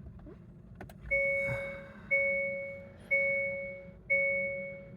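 Hyundai dashboard warning chime sounding over and over, a two-note tone about once a second, starting about a second in after a faint click; it goes with the car's parking sensor blockage error that keeps it from going into drive.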